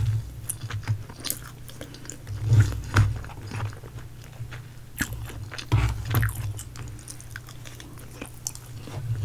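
Close-miked chewing of a person eating a mouthful of food, with irregular soft crunches and wet mouth clicks.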